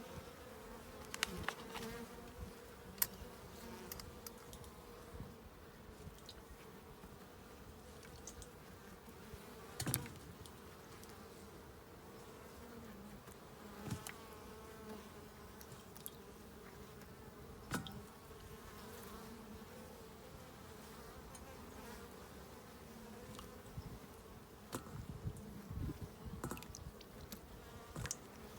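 Honeybees buzzing around an open hive: a steady, low-pitched hum of many bees. Occasional light clicks and knocks run over it, the sharpest about three seconds and ten seconds in.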